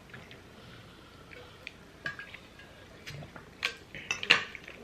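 Forks clicking and scraping on plates while eating pasta, with soft wet mouth sounds. Near the end come a few sharp clinks.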